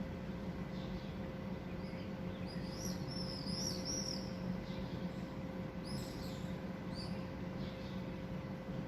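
A small bird chirping in two short bursts of high, quick notes, over a steady background noise with a faint constant hum.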